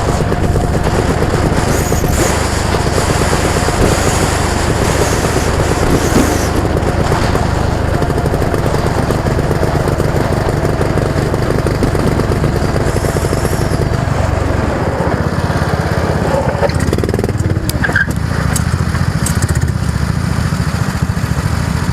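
A motor vehicle engine running steadily, with mixed road or wind noise; the deepest part of the rumble thins out about two-thirds of the way through.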